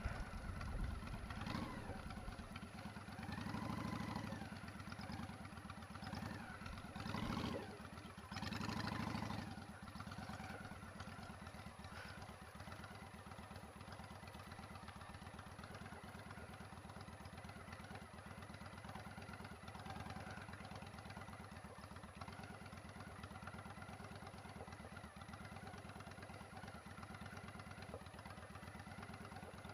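Motorcycle engine running at low revs, with a few louder swells in the first ten seconds, then settling to a steady idle.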